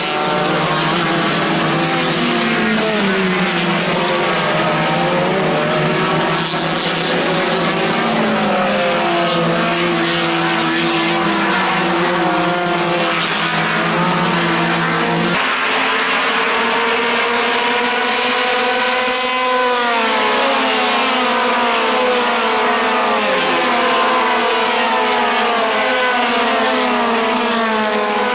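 Racing car engines at high revs, their pitch climbing and falling again and again through gear changes and lifts, with several engines heard together.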